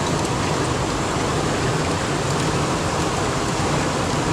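Steady rushing of a mountain stream's water, an even hiss with nothing changing, as at the foot of a small waterfall.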